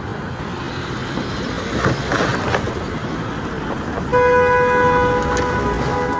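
Road traffic noise, then about four seconds in a vehicle horn starts one long, steady honk.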